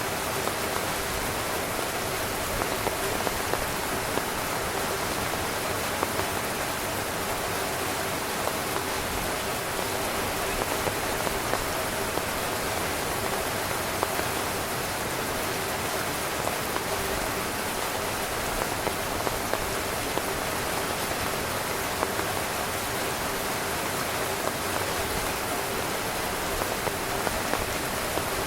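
Steady heavy rain falling on a tent, a constant hiss with scattered individual drop taps on the fabric.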